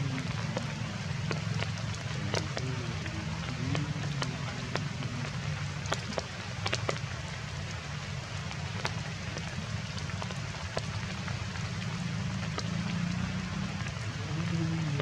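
Heavy rain falling steadily, with scattered sharp taps of drops hitting nearby surfaces.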